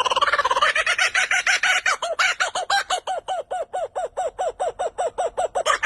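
A bird calling in a fast, even run of short repeated notes, about six a second.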